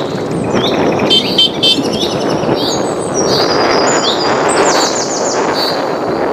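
Songbirds chirping, with a short rising note repeated about every two-thirds of a second, a few quick trills and some higher whistles, over a loud, steady rushing noise like wind.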